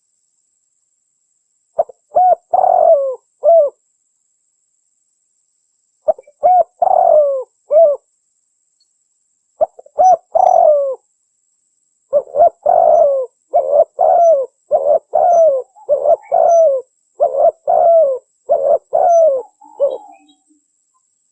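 Spotted dove (tekukur) cooing in phrases of short, slightly falling notes, with dead silence between phrases; three short phrases are followed by a long run of calls lasting about eight seconds. This is a recorded lure call used to attract wild spotted doves for trapping.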